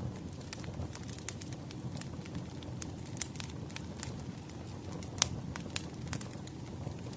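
Burning firewood crackling: a steady low rush of the fire under irregular sharp crackles and pops, the loudest about five seconds in.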